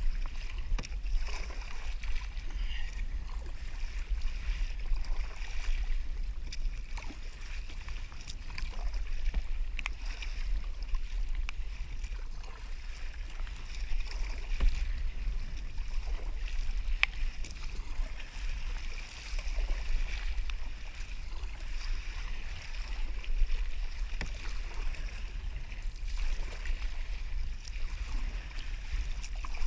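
Water lapping and sloshing against a kayak hull, with a steady low rumble and a few faint clicks.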